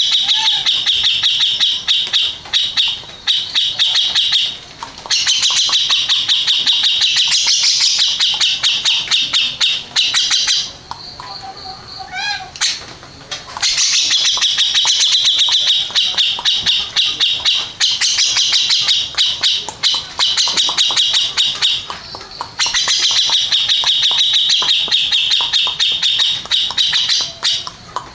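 Grey-cheeked bulbul (cucak jenggot) singing in long bouts of rapid repeated high notes, broken by short pauses, with a quieter stretch of rising notes about halfway through.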